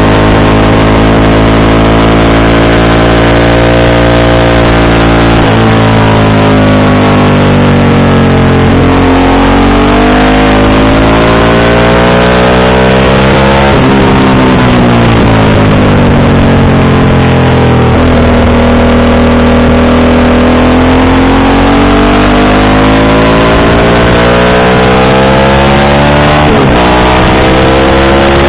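Motorcycle engine and exhaust under way, its pitch repeatedly climbing as it accelerates and falling as it slows, with a few sudden breaks in pitch. Loud and close.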